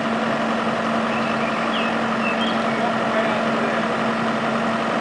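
Engine of heavy demolition machinery running steadily at a constant speed, with an even hum.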